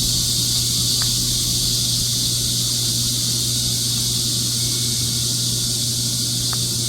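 Steady, high-pitched chorus of insects in a forest, with a steady low hum beneath and two faint ticks, about a second in and near the end.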